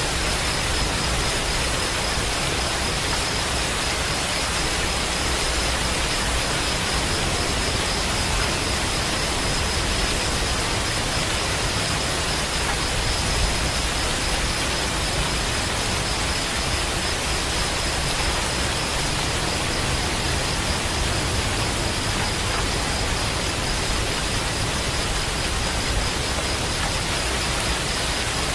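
Steady rain falling, a dense, even hiss with no single drops or thunder standing out. A faint, thin high-pitched tone runs steadily underneath.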